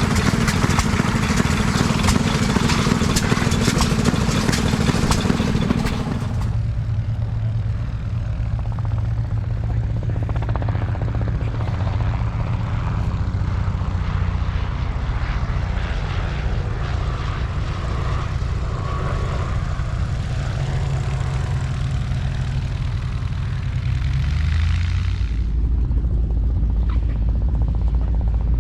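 Engines running steadily, the sound changing abruptly about six seconds in and again near the end.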